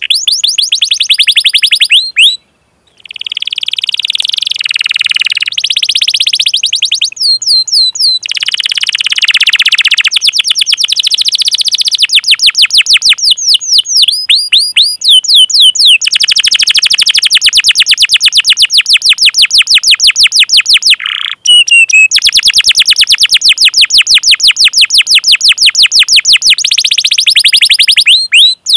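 Canary singing long, fast rolling trills of rapidly repeated high chirps, broken by a few brief pauses and some runs of slurred notes.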